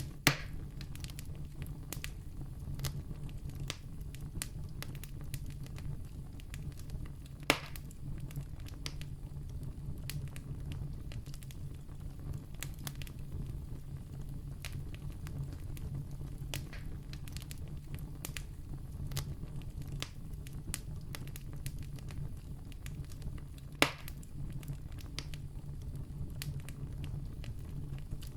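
Campfire burning with a steady low rush and frequent small crackles, broken by three sharp, loud pops: one right at the start, one about seven seconds in and one near the 24-second mark.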